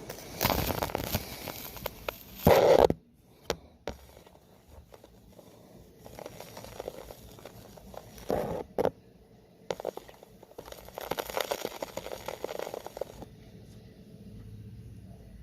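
Irregular rustling and crackling noise with scattered clicks, loudest in a short burst between two and three seconds in, then lower and patchier.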